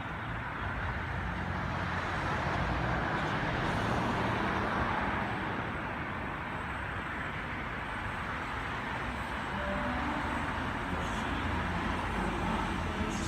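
Sydney Trains Waratah (A set) electric train pulling into the platform. Its running noise swells over the first few seconds and then eases.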